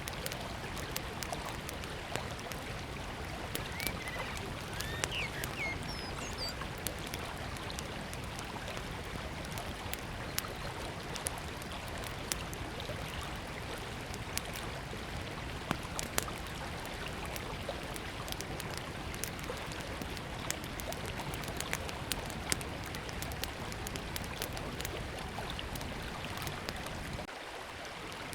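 Small wood fire crackling and popping, with many sharp snaps, over the steady rush of a river. A few short bird chirps are heard about two to five seconds in.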